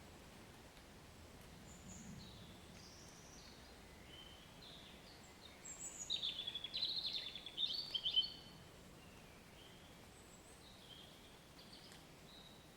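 Songbirds singing over a faint, steady rain hiss: scattered short chirps and whistles, with a louder run of quick trilled notes about six to eight seconds in.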